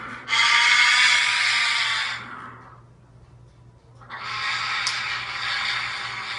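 A pet parrot squawking: two long, harsh screeches of about two seconds each, with a short pause between them.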